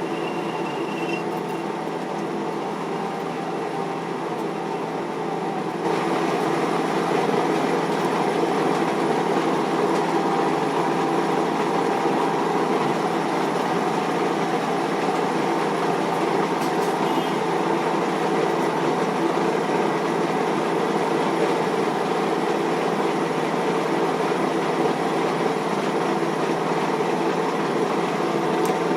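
Metal lathe running with a steady mechanical drone, which gets louder about six seconds in and stays so.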